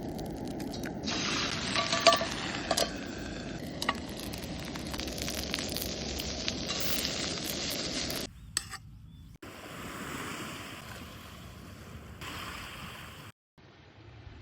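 Food sizzling in a pan, with a few sharp clinks of a metal utensil, cut together from several short clips so the sound changes abruptly about eight and nine seconds in.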